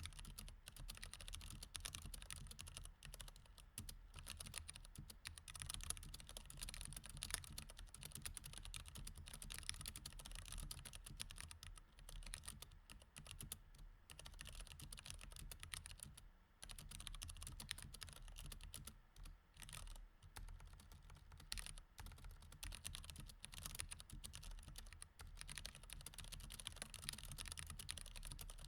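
Mechanical keyboard with Cherry MX Red switches being typed on steadily: a quiet, fast stream of key clacks, broken by a few brief pauses.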